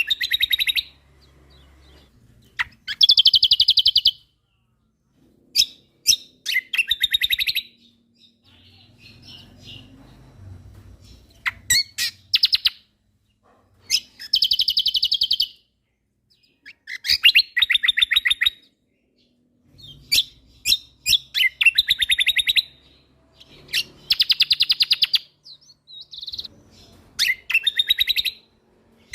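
Kecial kombok songbird singing in a steady series of phrases, each a rapid-fire trill of repeated notes lasting about a second, with sharp high chips between them and short pauses every couple of seconds.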